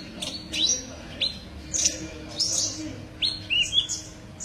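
A sunbird ('kolibri ninja') singing a series of short, sharp, high chirps that repeat about every half second, with a couple of quick warbled notes near the end.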